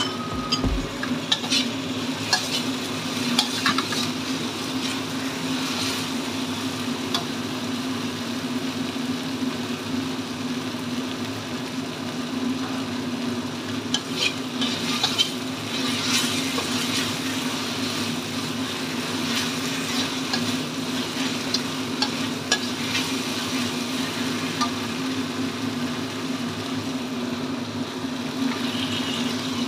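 Chili sambal paste sizzling in a steel wok while a metal spatula stirs and scrapes it, with scattered clicks of the spatula on the wok, over a steady low hum.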